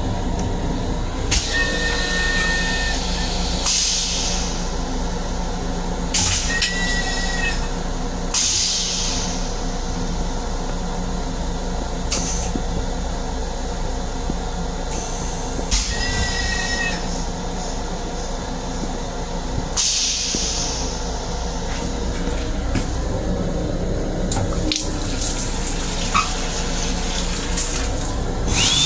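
An M7 electric railcar running, heard from inside the car: a steady low rumble and hum, with bursts of hiss every few seconds and three brief high squeals.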